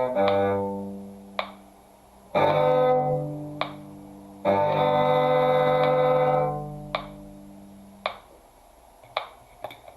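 String duet, violin and cello lines, finishing a passage: a run of notes dies away, then two long held chords ring and fade. A metronome click sounds steadily about once a second throughout.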